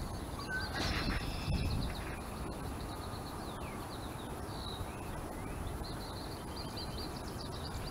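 Small birds chirping repeatedly in short calls, some sweeping downward, over a low rumble of wind on the microphone.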